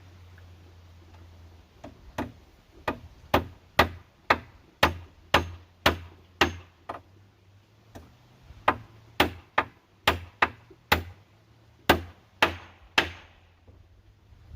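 A hand tool striking wood over and over, about two sharp blows a second, as in chopping or hammering. The blows start about two seconds in, pause briefly midway and stop a little over a second before the end.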